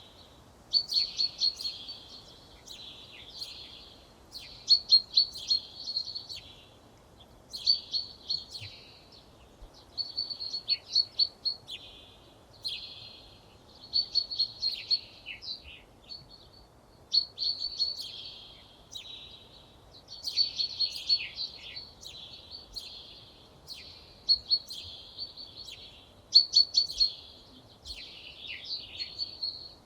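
A songbird singing short phrases of rapid, high trilling notes, one phrase every two to three seconds, about ten in all.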